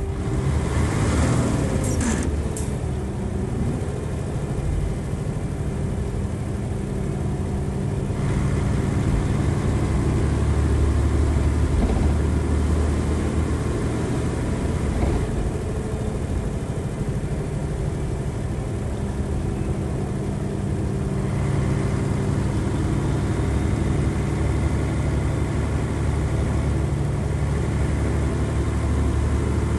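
Nissan Diesel FE92TA turbocharged diesel bus engine running under way, heard from inside the bus, with a brief hiss in the first couple of seconds. The engine note grows fuller and brighter about eight seconds in and again past twenty seconds.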